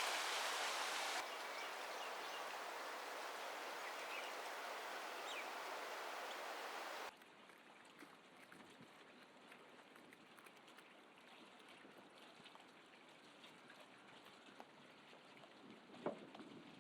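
Steady outdoor noise, a hiss like wind or running water with no voices or music. It drops abruptly about a second in and again about seven seconds in, leaving a faint background with small ticks and a brief louder sound near the end.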